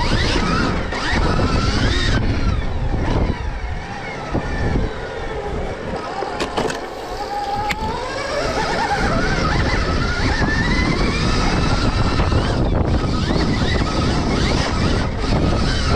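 Stark Varg electric motocross bike being ridden hard: the electric motor's whine rises and falls with the throttle over a steady rushing noise.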